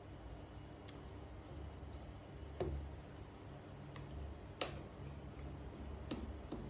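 A few separate sharp clicks and taps of small tools and parts on a smartphone under repair, the loudest about halfway through, over a low steady hum.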